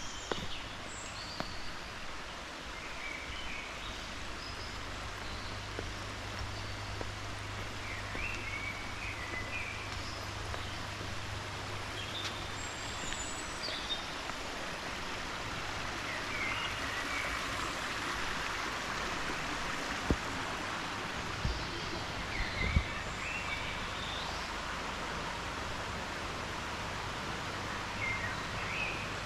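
Small birds chirping now and then over a steady rushing noise that swells a little about halfway through, with a couple of brief knocks about two-thirds of the way in.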